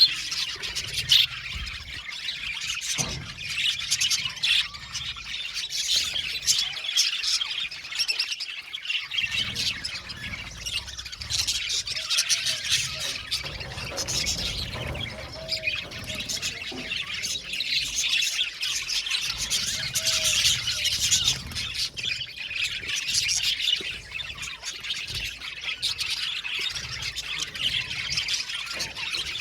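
A flock of budgerigars chattering, a dense unbroken mix of many overlapping chirps and squawks.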